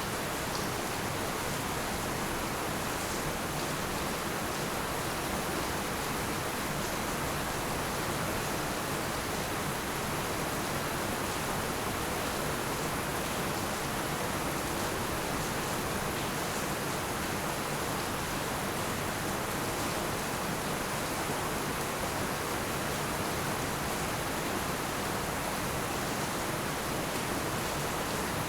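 Heavy rain falling in a steady, even hiss, with no single drops or other sounds standing out.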